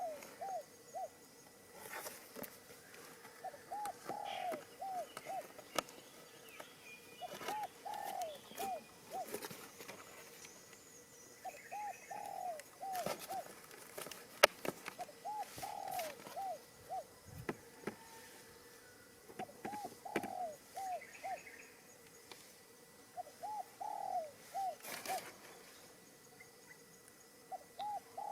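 A dove cooing, a phrase of four or five short arching coos repeated about every four seconds. A sharp click comes about halfway through.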